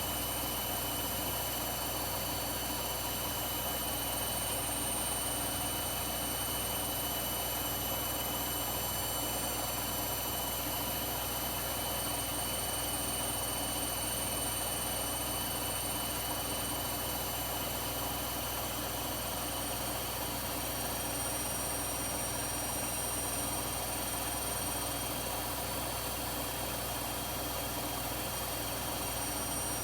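Front-loading washing machine spinning steadily at high speed: an even mechanical hum with several thin, steady high-pitched whines over it.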